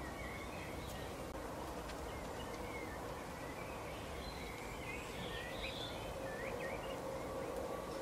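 Small songbirds giving short, high chirps and twittering notes, most of them about halfway through, over a steady outdoor background hiss with a faint hum.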